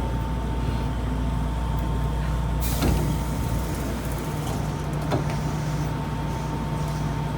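Inside an Odakyu 1000 series electric train car, standing or nearly stopped, with a steady hum and low rumble. A sharp hiss of air comes in about two and a half seconds in with a click, and another click follows a couple of seconds later.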